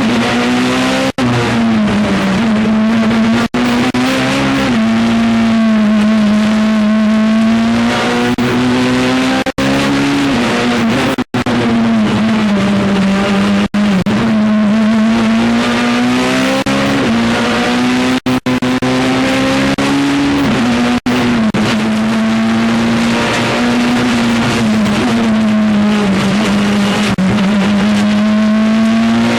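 Peugeot 207 Super 2000 rally car's engine heard on board under hard driving, its pitch rising and falling as it is revved through the stages. Very short cuts in the sound come every few seconds.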